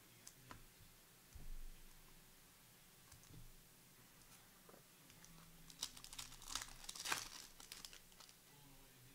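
Foil wrapper of a trading card pack being torn open and crinkled, with a burst of faint crackling in the second half. A few light clicks and a soft knock come earlier as the cards and pack are handled.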